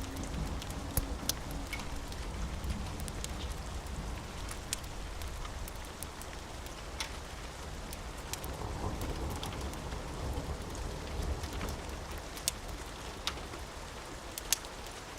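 Steady rain falling, with scattered sharp ticks and pops and a low rumble underneath.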